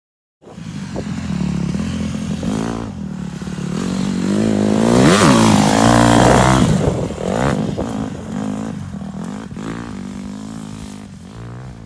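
Small pit bike (dirt bike) engine running, revving up to its loudest about halfway through and then dropping back and fading.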